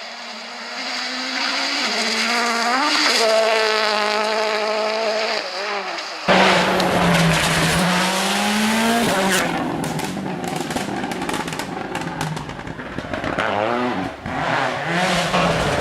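2014 World Rally Cars' 1.6-litre turbocharged engines revving hard as the cars pass at speed, with the pitch climbing and dropping through gear changes, cut together from two or three passes. A rush of sharp cracks comes a little past the middle.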